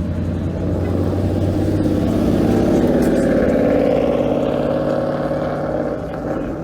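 A vehicle engine running with a loud exhaust, its sound swelling about three seconds in and easing off again toward the end.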